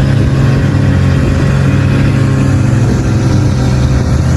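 Engine running at a steady speed, with a low, even hum that holds its pitch throughout.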